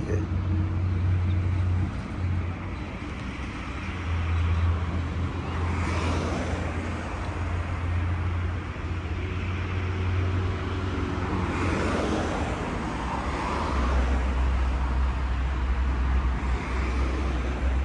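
Car engine running, a low steady hum that steps down in pitch about fourteen seconds in, with passing swells of road or traffic noise.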